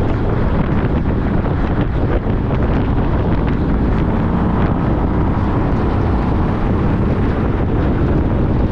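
Steady wind rush buffeting the microphone, mixed with the running noise of a 2014 Honda CTX1300 motorcycle riding along at speed.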